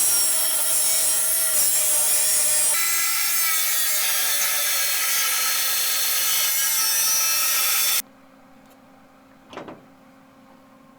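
Power tool cutting a hole through steel: a loud, steady cutting noise whose motor pitch sags a little under load, stopping abruptly about eight seconds in.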